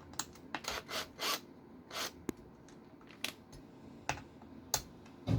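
Small RC car chassis parts being handled and fitted by hand as screws are started in a bracket: a string of light, irregular clicks and scrapes.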